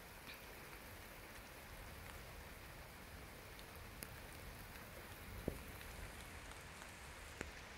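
Faint, steady rain falling, with a few sharp single ticks of drops.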